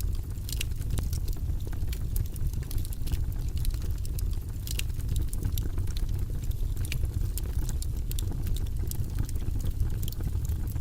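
Wood fire burning in a fireplace, crackling with frequent small, sharp pops over a steady low rumble.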